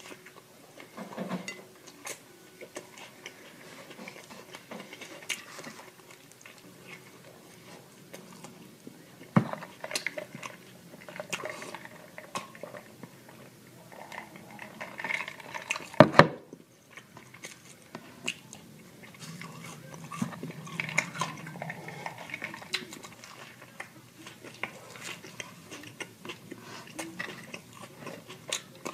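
Close-miked ASMR eating: chewing and biting with wet mouth clicks and crunches. A couple of sharper, louder clicks stand out, the loudest about 16 seconds in.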